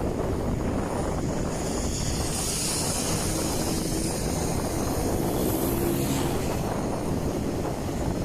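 Wind rumbling steadily on a phone microphone carried on a moving bicycle, with road noise and faint brief tones mixed in.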